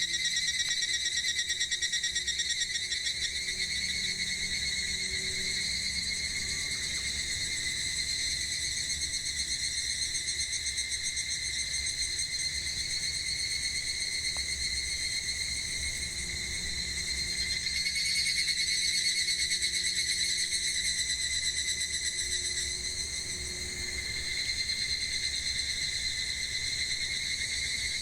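Cicadas singing in a steady chorus: a continuous high, finely pulsing buzz that swells a little about two-thirds of the way through.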